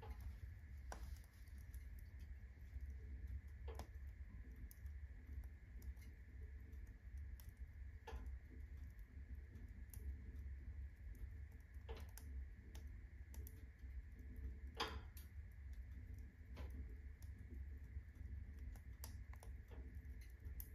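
Firewood burning in a fireplace, crackling with irregular pops and clicks, a few louder snaps among them, over a steady low hum.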